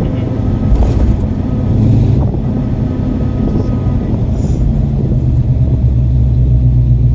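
A 1978 truck driving, its engine and road noise heard from inside the cab as a steady low rumble. About five and a half seconds in, the engine note grows louder and steadier.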